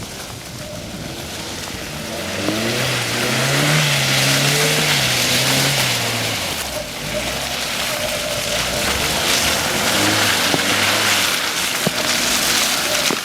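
Hyundai Tucson engine revving under load while driving in mud. The revs rise about two seconds in, hold, then ease off, over a loud steady hiss of tyres and spraying mud, with a few sharp knocks.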